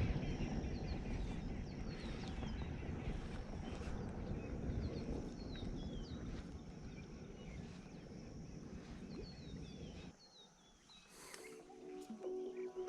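Small birds chirping again and again over wind rumbling on the microphone. The wind noise cuts off about ten seconds in, and music begins near the end.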